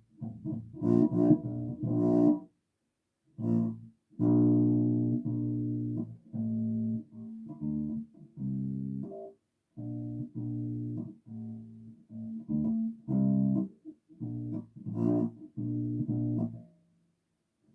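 Solo bass guitar playing a phrase of plucked notes, some held and some short, with a few sharp, snappy attacks near the start and again about fifteen seconds in. The playing stops about a second before the end.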